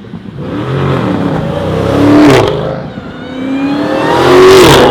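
Car engine revving hard as it accelerates past, in two loud surges, the first peaking about two seconds in and the second near the end, with the engine pitch rising and then dropping each time.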